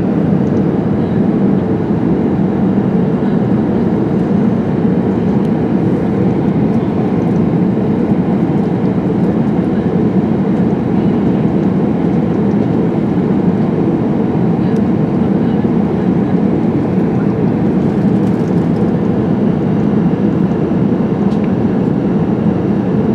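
Steady cabin rumble inside an Airbus A380, heard from a lower-deck economy window seat: the Rolls-Royce Trent 970 engines and airflow make an even, low noise that does not change, with a few faint ticks from the cabin.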